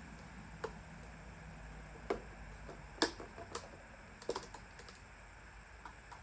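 Irregular light clicks and knocks from objects being handled, about seven in all, the loudest about three seconds in and a quick cluster a little after four seconds.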